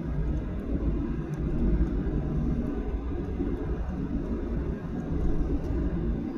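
Steady low rumble inside the passenger cabin of a Boeing 737-800 airliner, the noise of its engines and airframe.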